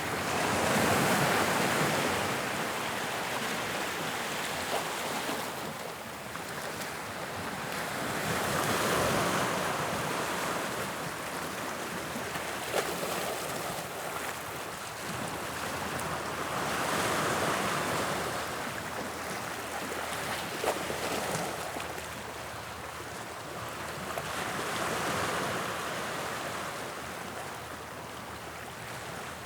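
Sea waves breaking on the shore, the surf swelling and falling back about every eight seconds, four times.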